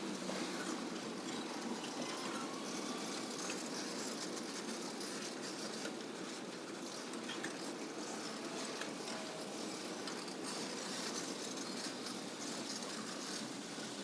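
Steady vehicle noise: an even rumble with a hiss over it and no distinct events.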